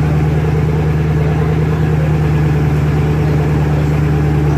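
Supercar engine idling steadily and loudly, heard close to its open engine bay, with an even low hum and no revs.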